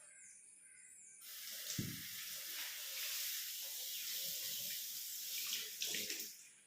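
Water running from a tap into a sink for about five seconds, starting about a second in and stopping near the end, with a dull knock near the start and another near the end of the flow. Faint bird chirps are heard before the water starts and after it stops.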